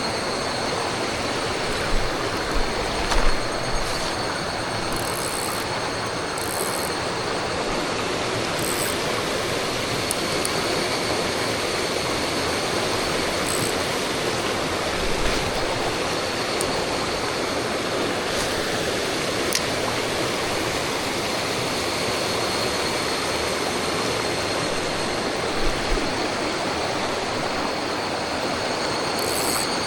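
Steady rush of flowing water, with a few light knocks about two to three seconds in.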